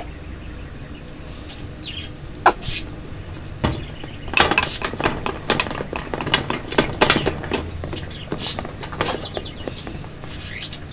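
A utensil clicking and scraping against a bowl as slime ingredients are stirred, with a quick run of clicks from about four seconds in until near the end. Birds chirp a few times.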